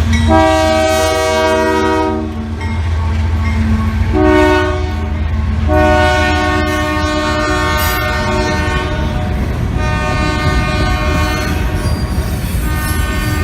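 Diesel freight locomotive sounding its multi-chime air horn in the grade-crossing pattern of long, long, short, long, over the low rumble of the passing train. The last long blast runs on for most of the clip.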